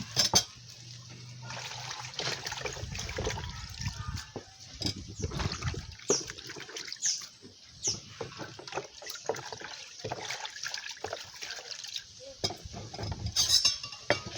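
Water splashing and sloshing as coconut pieces are washed by hand, with scattered knocks and clicks throughout.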